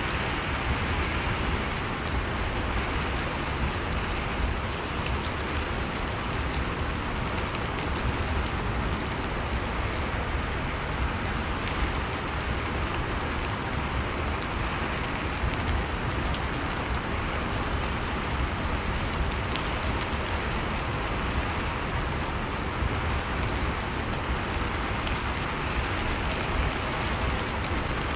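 Steady rain falling on a surface, an even hiss with a low rumble beneath and faint scattered drop ticks.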